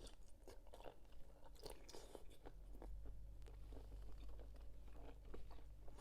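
Close-up chewing of crunchy squid in a spicy Thai pounded salad, with many short, irregular crunches. A steady low hum runs underneath.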